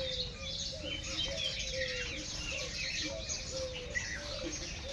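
Many birds chirping and calling at once, dense overlapping short chirps with a run of lower, quickly repeated falling notes, over a steady low background rumble.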